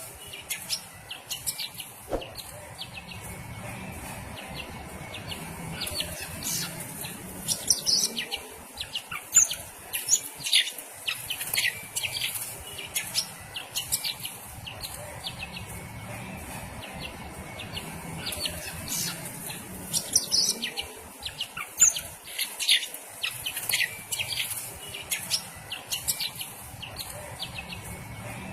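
Cucak ijo (green leafbird) calling in an agitated, continuous stream of short, sharp, high-pitched chirps and whistled notes.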